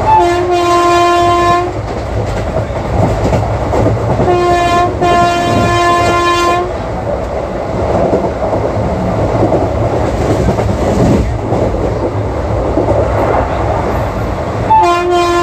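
WAP-4 electric locomotive horn sounding: one blast at the start, a short toot and a longer blast about four to seven seconds in, and another blast starting near the end. Under it runs the steady rumble and clatter of the ICF coaches' wheels on the track.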